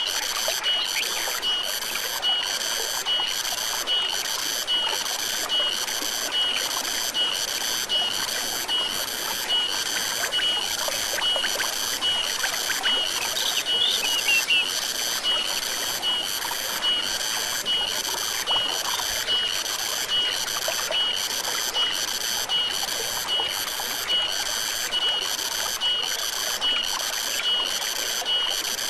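Forest stream running steadily, with a rhythmic high chirping from a creature repeating about one and a half times a second. A short higher call cuts in about halfway through.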